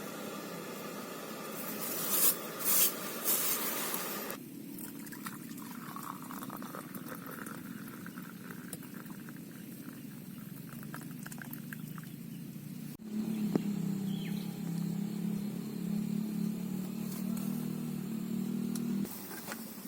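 Heavy rain pattering steadily on a tent, with a few louder bursts about two to three seconds in, and the sound shifting abruptly twice where the shots change.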